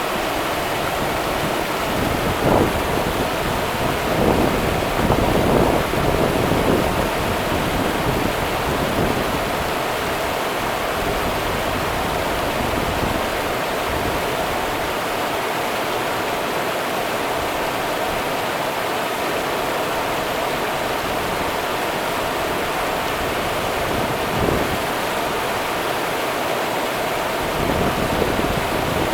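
Rio Grande running water: a steady rush of river current over rocks, with a few brief louder splashes or swells.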